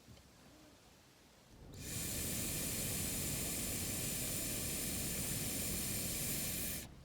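A steady hiss that comes in about two seconds in, holds even for about five seconds and cuts off abruptly.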